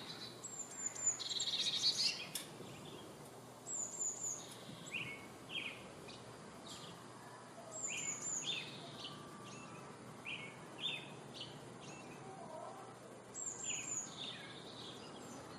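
Wild birds singing and calling: a high phrase of a few quick descending notes repeats every few seconds, with short chirps lower down and a brief louder trill about two seconds in, over a steady faint outdoor hiss.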